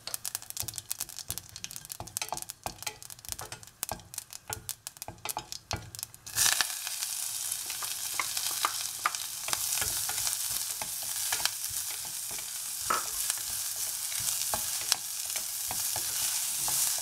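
Mustard seeds, urad dal and cumin crackling and popping in hot oil in a stainless steel pressure cooker pan, with a wooden spatula scraping the metal. About six seconds in, chopped onion, green chilli and curry leaves go into the oil and it turns to a steady, loud sizzle as they fry under the stirring spatula.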